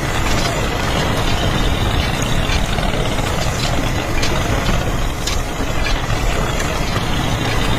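An engine running steadily, heard as a low, even rumble with a few faint clicks over it.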